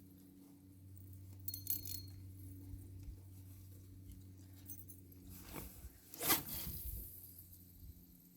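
Faint small metallic clinks of fishing gear about one and a half seconds in, then a single brief rushing whoosh about six seconds in, the loudest sound.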